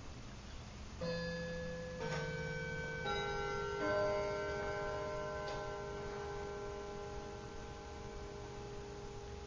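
Four ringing musical notes struck about a second apart, each left to sustain so they build into a chord that slowly fades, over a low hum.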